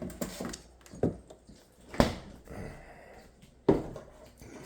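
About four sharp knocks with some clatter between them. The loudest comes about two seconds in and another near the end.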